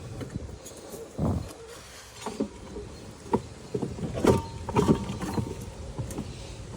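Scattered knocks, rubs and clicks of hands working a rubber drive belt over the CVT clutch sheaves of a Yamaha G9 golf cart with the engine off, with a heavier thump about a second in.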